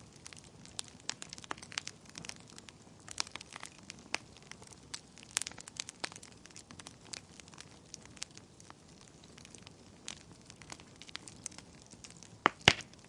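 Wood fire burning in a fireplace, crackling with irregular sharp pops and snaps, with two louder pops close together near the end.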